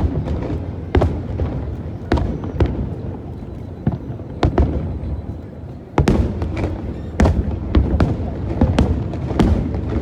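Aerial fireworks shells bursting one after another, about a dozen sharp booms, one to two a second, over a continuous low rumble.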